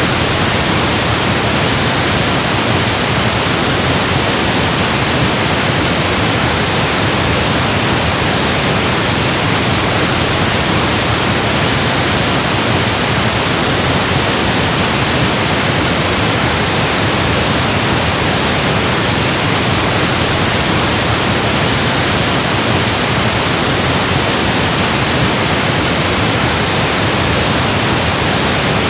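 Steady electronically generated pink noise: an even, unchanging hiss across the whole range.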